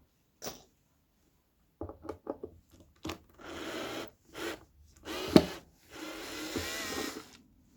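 Screws being worked out of a wooden speaker cabinet: scattered clicks and knocks, two runs of rasping turning noise of about a second each, and one sharp knock about halfway through.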